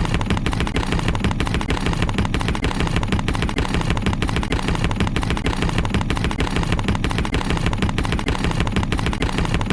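Steady, rapid mechanical chugging, about ten knocks a second at an even beat, like a small engine running.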